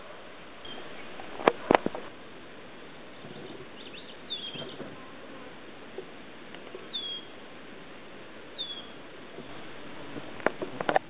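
A bird's short, falling chirp, repeated a few times a couple of seconds apart, over a steady hiss. Sharp clicks, the loudest sounds, come about a second and a half in and again near the end.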